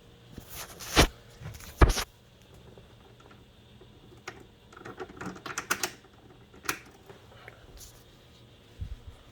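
Handling noises: two sharp knocks a little under a second apart, then a quick run of clicks and light rattles in the middle, with a faint knock near the end.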